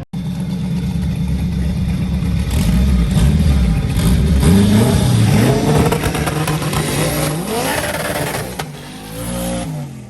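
A drag car's engine launching and accelerating hard: a steady high-rpm hum, then the pitch climbs and drops back several times as it shifts up through the gears, before fading away.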